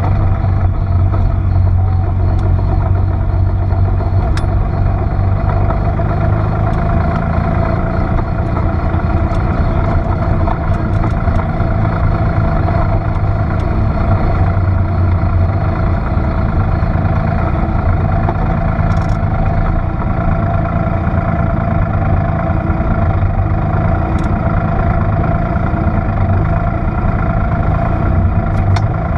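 Porsche 930 Turbo's air-cooled flat-six running at a steady, unchanging engine speed with no revving, with a few light clicks.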